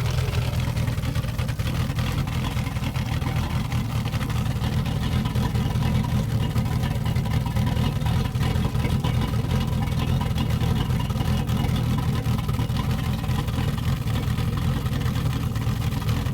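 1997 Volvo Penta GLi marine engine running steadily, heard at its rear exhaust outlet as a low, even exhaust note.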